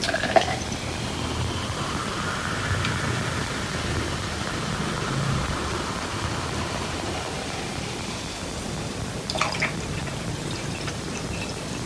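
Coca-Cola being poured and fizzing, over a steady background hiss. There is a sharp click at the start and a short cluster of clicks about nine and a half seconds in.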